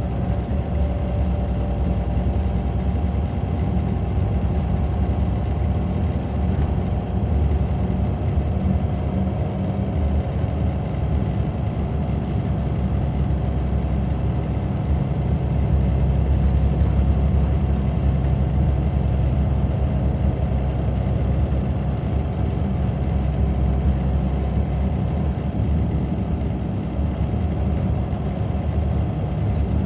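Scania K94 bus's nine-litre five-cylinder DC9 diesel engine running steadily, a low even drone with a little rise and fall in pitch.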